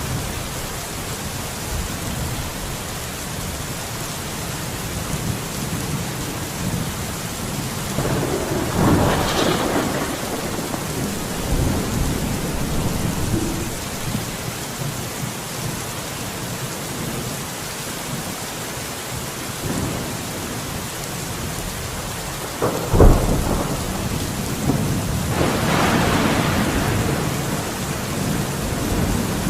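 Steady heavy rain, with rolling thunder swelling twice and one sharp, loud crack of thunder about two-thirds of the way through.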